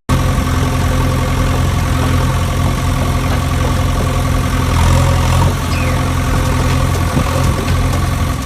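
An engine idling steadily: a low, even running hum.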